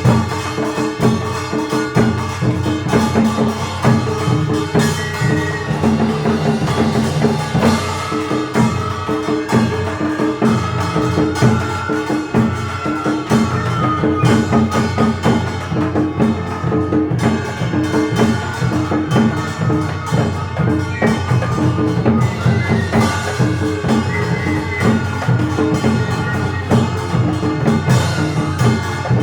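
Korean traditional (gugak) orchestra playing: a melody line over a steady beat of drums and other percussion.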